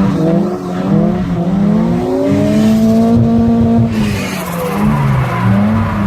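Turbocharged BMW Z3 drift car's engine revving up and down while drifting, holding a steady note for a second or so in the middle, with tyres squealing under it.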